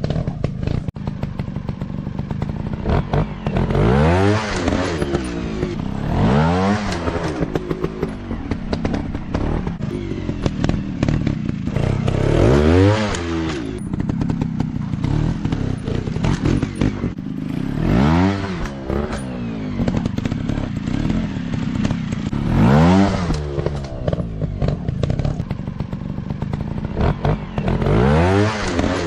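Dirt bike engines revving up and dropping back again and again, about six swells in all, over a steady clatter of clicks.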